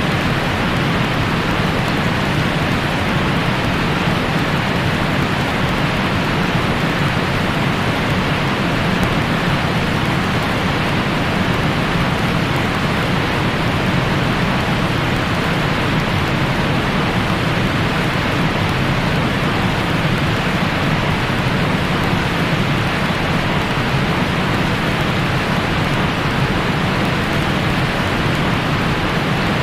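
Steady white-noise sleep sound for newborns: an even, unbroken rushing hiss that is soft and dull in tone rather than sharp, much like steady rain.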